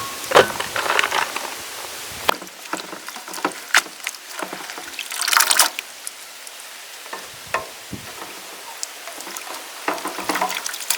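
Food-preparation handling sounds: scattered light clicks and knocks of utensils and ingredients, with a louder burst of liquid noise about five seconds in.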